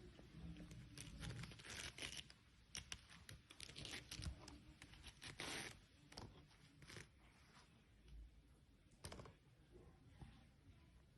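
Faint, irregular scratching and crinkling: a string of short crackles, with a longer rasp about five and a half seconds in and a sharp scratch near the end.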